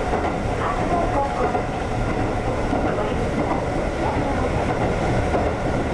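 Ex-Tokyu 7000 series electric train of the Konan Railway running along the line. The wheels on the rails and the running gear make a steady rumble, with faint wavering tones from the traction gear.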